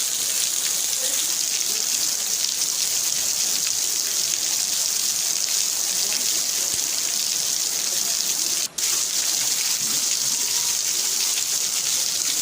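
Heavy rain falling steadily as a dense, even hiss. The sound cuts out for an instant about two-thirds of the way through.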